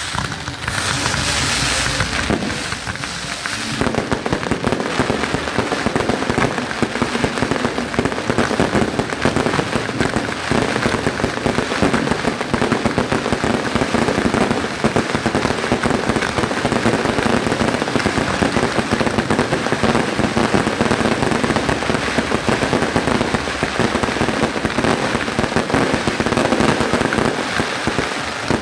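Fireworks display going off: a dense run of rapid pops and crackles that thickens into near-continuous crackling about four seconds in.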